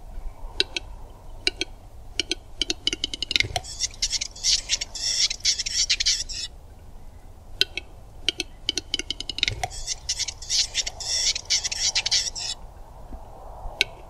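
Male western capercaillie's display song, given twice. Each phrase is a run of clicks that speeds up into a rattle, a single pop, then about three seconds of hissing, scraping notes.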